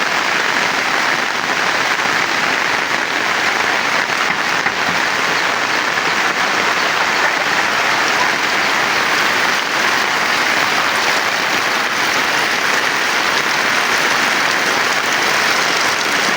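Heavy rain falling, a steady, even hiss that holds the same level throughout.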